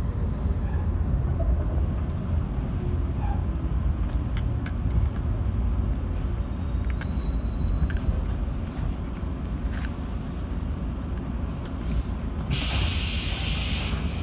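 JR 115-series electric train heard from inside the car, rumbling low as it rolls slowly to a stop, with a few light clicks. A loud air hiss from the brakes starts about two seconds before the end.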